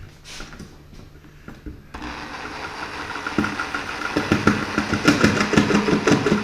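Reciprocating saw (sawzall) starting up about two seconds in and cutting, getting louder, with a rough rattling chatter from the blade from about three and a half seconds in.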